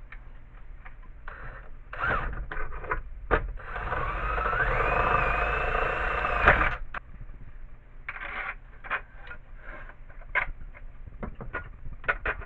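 A small electric power tool runs for about three seconds, its whine rising as it spins up and then holding, and stops with a sharp click. Clicks and clatter of metal parts and tools being handled come before and after it.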